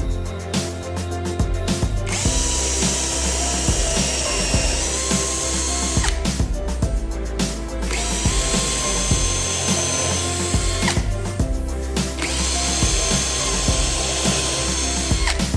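Power tool motor running in long stretches with a high whine, stopping briefly about a second in, around the middle and again about three-quarters through, over background music with a steady beat.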